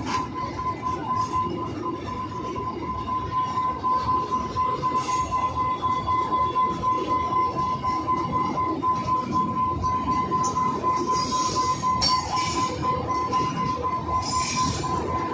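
Freight train wagons rolling past, with a rhythmic clatter of wheels and a steady high whine. Brief higher screeches come near the end.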